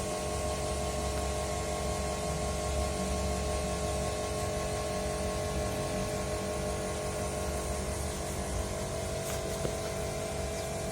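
Steady mechanical hum with several fixed tones, like a small motor running.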